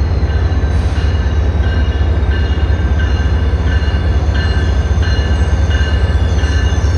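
Passenger train running by: a loud, steady low rumble, with a thin high squeal that comes and goes from about a second and a half in.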